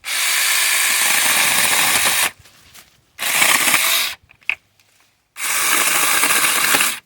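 Tingmengte 6-inch cordless mini chainsaw running in three bursts, about two seconds, one second and a second and a half long, each starting and cutting off sharply as the trigger is pulled and released while cutting bush branches.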